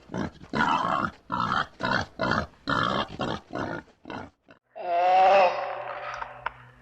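An animal grunting in a quick run of short, rhythmic pulses, then, after a brief pause, giving one long moaning call.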